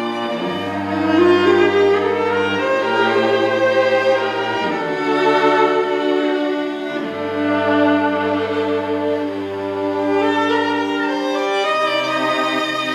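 Bowed string music in a slow piece: a violin line moves over long-held low cello notes that change every few seconds.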